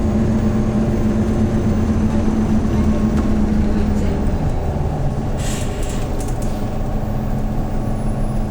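Hyundai New Super Aero City CNG city bus engine running on the road; its pitch drops about four seconds in and comes back up around six and a half seconds, with brief hissing in between.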